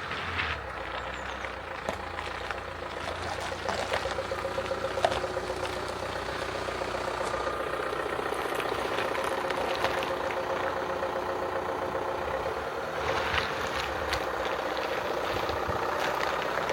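A vehicle engine running steadily, with a faint even hum and a few scattered clicks.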